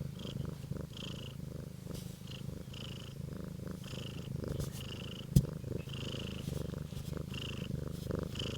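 Siamese cat purring steadily, a continuous low rapid rumble, contented in its warm bed. A single sharp click about five seconds in.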